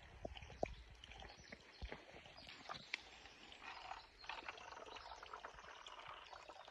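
Mountain spring water running from a pipe in the ground: a faint, steady splashing that grows louder a little under four seconds in, after a few light clicks.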